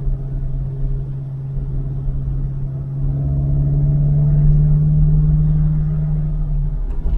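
1969 Alfa Romeo 1750 GTV's twin-cam four-cylinder engine, heard from inside the cabin while driving, a steady engine note that grows louder from about three seconds in, then falls away just before the end.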